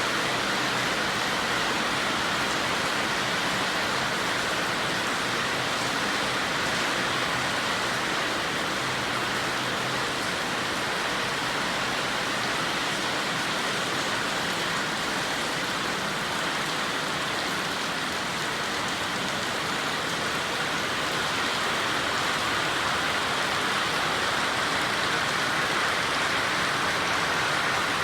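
Light summer rain falling steadily, a constant even hiss of rain on surfaces.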